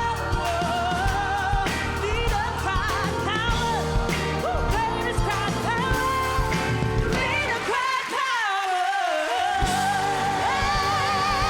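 A pop song sung live over a full band, the voice with a wide vibrato. Around eight seconds in the bass and drums drop out for about a second and a half under a falling sung phrase, then the band comes back in.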